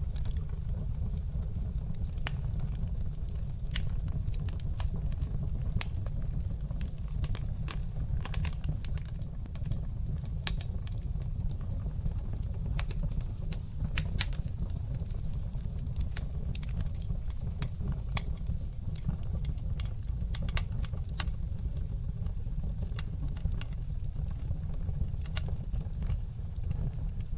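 Wood fire crackling in a fireplace: a steady low rumble of burning with frequent sharp pops and snaps scattered irregularly throughout, two of them louder than the rest in the second half.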